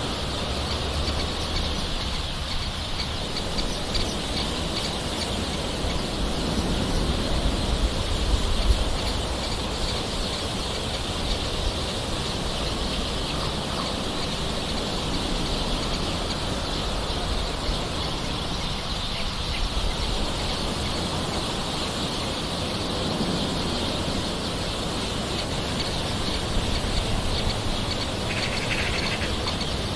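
Gentle rain falling steadily, with birds calling in the background.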